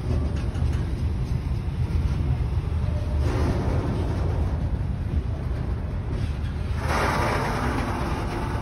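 Container freight train wagons rolling past close by: a steady low rumble of wheels on the rails, with louder rushing noise swelling in about three seconds in and again about seven seconds in.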